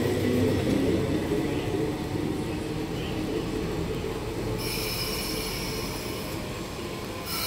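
MTR Metro-Cammell MLR electric train accelerating away from the platform, the low hum of its nose-suspended traction motors and the rumble of its wheels easing as it pulls away. About four and a half seconds in, a high squeal of several steady pitches comes in, breaks off briefly and returns near the end.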